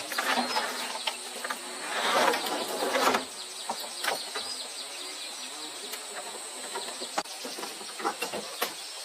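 Insects droning with a steady high-pitched hum, broken by scattered short knocks and clicks.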